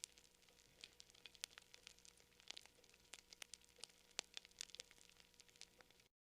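Campfire crackling: irregular sharp pops and snaps of burning wood, several a second, over a faint hiss. The sound cuts out to silence about six seconds in.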